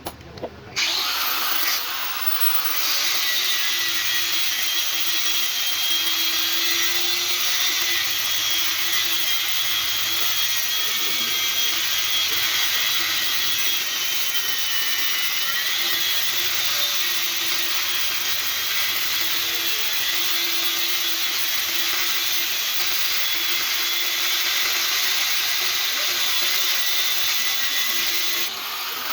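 An electric power tool runs steadily with a high whine, its pitch dipping briefly about halfway through.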